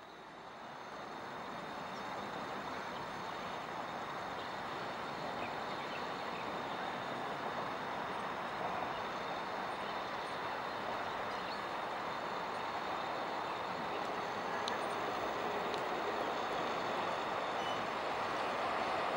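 TEMU2000 Puyuma tilting electric multiple unit approaching on the line. Its steady rumbling running noise grows louder throughout as it draws nearer.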